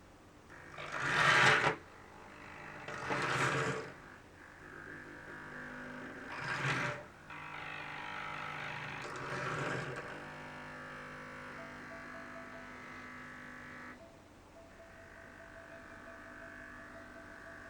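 Small electric model-train motor whining steadily under Bluetooth speed control, its pitch shifting as the speed changes. Four short, louder bursts of noise come in the first ten seconds.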